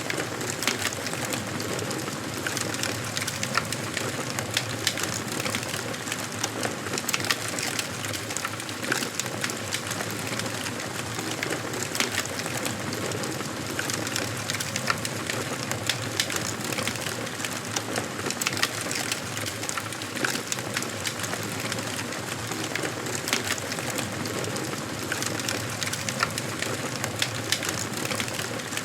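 Wood fire burning in a fireplace: a steady hiss of flames with frequent sharp crackles and pops from the burning logs.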